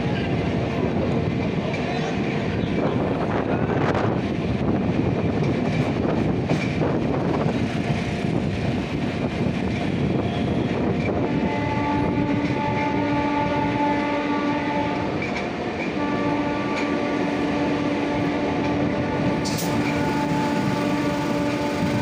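MEMU train running with steady wheel and rail noise. About halfway through, its horn sounds one long steady blast, and after a short break a second, longer blast that is still going at the end.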